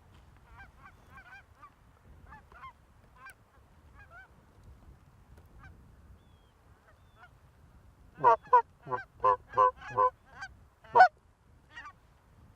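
Canada geese honking and clucking: faint, scattered calls at first, then a quick run of about ten loud, close honks starting about eight seconds in.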